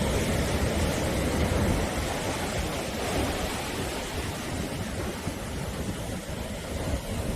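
Sea waves breaking on a shore: a continuous low rushing surf, louder for the first couple of seconds, easing in the middle and building again near the end.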